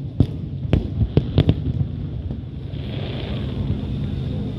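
Fireworks display: five sharp bangs within the first second and a half, then a hissing spell around three seconds in, over a steady low rumble.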